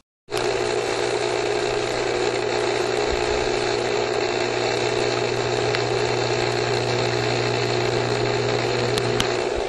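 Swimming pool pump running: a steady motor hum with the rush of water being moved through the pump. It cuts in just after the start and stops shortly before the end.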